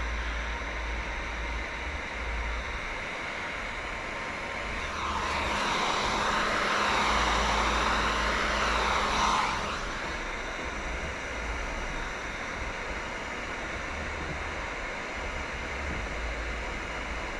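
A heat gun blowing for about five seconds, swelling in from about four to five seconds in and cutting off near ten seconds, over a steady background hum.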